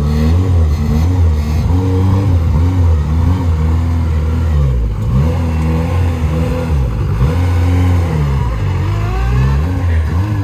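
1992 Honda Civic engine running loudly, its revs rising and falling again and again as the throttle is worked.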